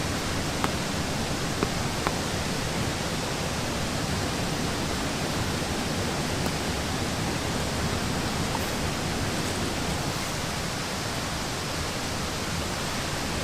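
Steady rain falling, an even hiss, with a few light clicks in the first two seconds.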